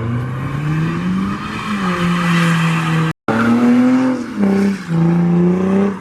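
A car engine revving hard, climbing and then held at high revs while the tyres squeal, as in a burnout or donut. The revs dip briefly twice near the end.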